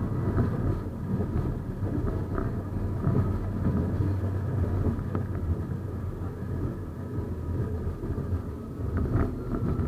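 71-931M Vityaz-M tram running along the line: a steady low rumble of the motors and wheels on the rails, with a faint high whine and scattered clicks, and a sharper click about nine seconds in.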